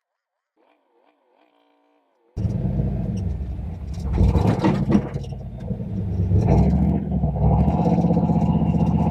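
Turbocharged 351 Windsor V8 of a Fox-body Mustang running loudly, cutting in suddenly about two seconds in, with a brief rush of noise about two seconds later and a steady loud drone of the engine under load after that.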